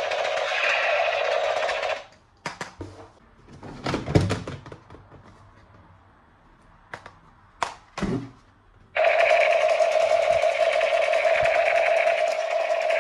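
A steady electric buzz from a battery-powered toy gun cuts off abruptly about two seconds in. Then come several sharp plastic clicks and knocks, and the buzz starts again abruptly near the end.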